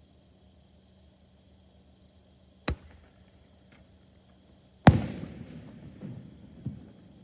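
Fireworks shells bursting: a sharp bang about two and a half seconds in, then a louder bang near five seconds with a rolling echo and two smaller bangs after it, over a steady chirring of insects.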